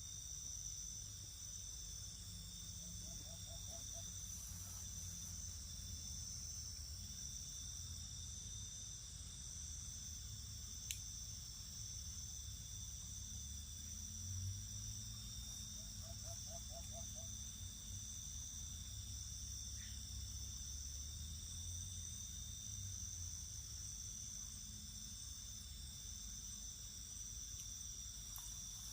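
Crickets calling in a steady night chorus, several high continuous trills layered together over a low rumble. A faint short rattling call comes three times, and there is one sharp click about 11 seconds in.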